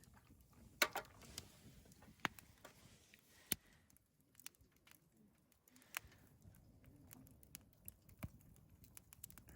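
Faint, scattered clicks and small knocks at irregular intervals over a low, quiet background.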